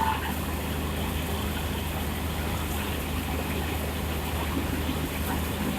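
Railway locomotive standing at a station platform with a steady low hum, under a background of general noise.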